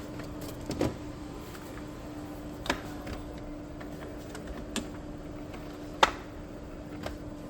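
Epson L3256 ink-tank printer running its power-cleaning ink-charge cycle on a newly fitted printhead. A steady low hum is broken by a few sharp mechanical clicks, the loudest about six seconds in.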